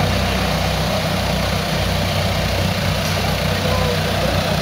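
Engine of a modified long-wheelbase Suzuki Samurai off-road 4x4 running steadily at low revs, near idle, as the vehicle creeps slowly on a steep muddy slope.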